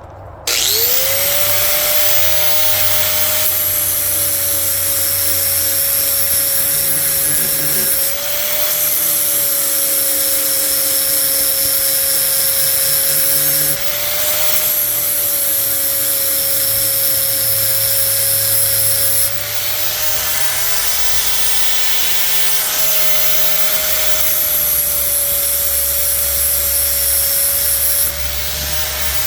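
Handheld angle grinder starting up with a rising whine, then grinding the edge of a steel lawnmower blade: a steady high motor whine over a harsh grinding hiss. A few times the loudness dips and the whine briefly rises and falls as the load on the disc changes.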